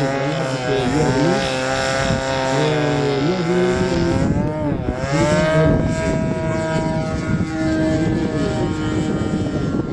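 Radio-controlled model airplane's engine running in flight. Its pitch wavers, dips and climbs again about halfway through, then holds steady.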